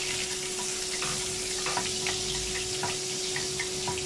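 Garlic and ginger sizzling in hot oil in a wok, stirred with a wooden spatula that knocks and scrapes against the pan several times.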